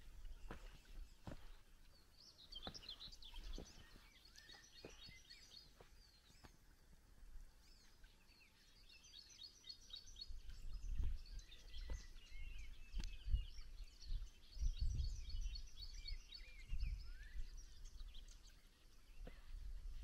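Songbirds singing, repeating short high trilled phrases every few seconds, over soft footsteps and scattered knocks, with low thuds in the second half.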